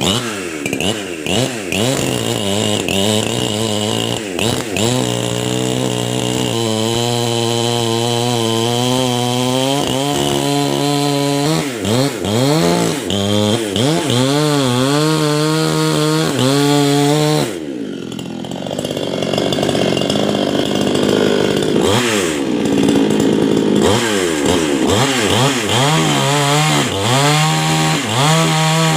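Two-stroke chainsaw cutting neem wood, its engine revving up and down and holding high revs through stretches of the cut. A little past halfway the revs drop away briefly, then climb back up.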